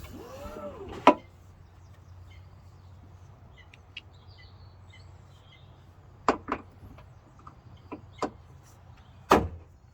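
Several sharp clicks and knocks of parts and tools being handled while the tailgate struts are fitted: one about a second in, two close together past the middle, and the loudest near the end. Faint bird chirps sound in between.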